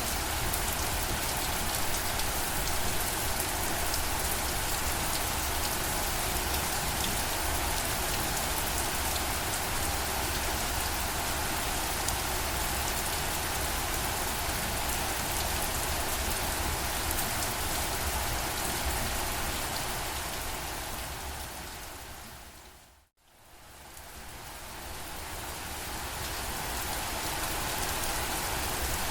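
Steady rain falling, an even hiss. About three quarters of the way through it fades down to silence and then fades back up.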